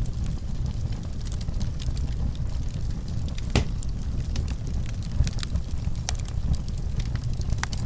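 Wood fire burning in a fireplace: a steady low rumble with irregular crackles and snaps, one louder pop about halfway through.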